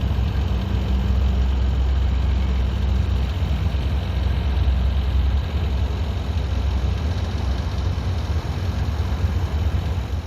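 A steady, loud engine rumble, like a running vehicle or machine. It has a low hum that drops away about three seconds in.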